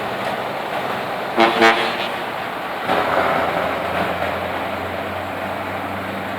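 V8 car engine running, with two short horn toots about a second and a half in.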